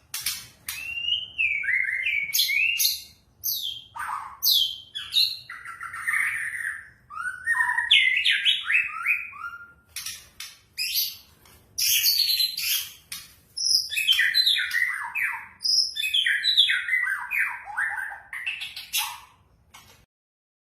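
White-rumped shama singing: a long, varied run of short phrases mixing clear whistles, quick falling notes and rapid chirp series, which breaks off shortly before the end.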